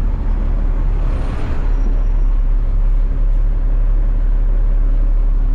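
Garbage truck engine running steadily with a deep low rumble as the truck manoeuvres, with a short hiss of air about a second in.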